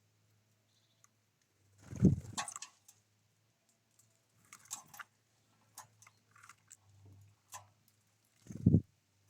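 Small birds at a feeder: two dull thumps, one about two seconds in and one near the end, with a brief scratchy rustle after the first and a scatter of short taps and clicks between them.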